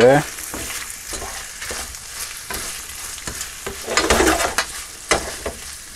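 Pork belly pieces and vegetables sizzling in a stainless steel sauté pan while a spatula stirs them, scraping and knocking against the pan, with a louder stretch of stirring about four seconds in.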